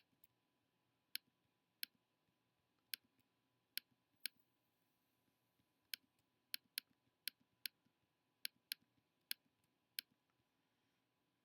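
Computer mouse button clicking: about fifteen single sharp clicks at uneven intervals, some in quick pairs, over faint room tone.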